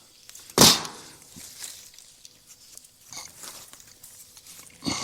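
Split firewood pieces knocking against wood: one loud, sharp knock about half a second in, then several fainter knocks and clatters.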